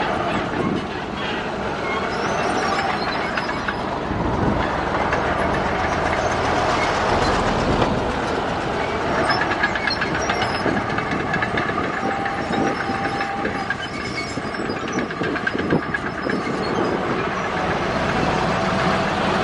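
Crawler bulldozer at work: diesel engine running under load with continuous clanking and rattling of its steel tracks.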